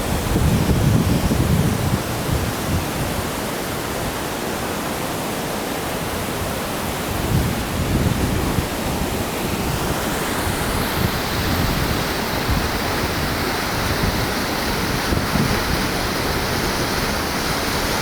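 A massive waterfall falling into a narrow canyon: a steady, loud rush of falling water. The rushing grows brighter and hissier about ten seconds in.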